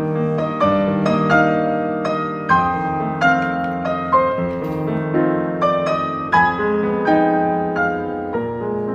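Background music: a gentle piano melody playing notes at an even pace.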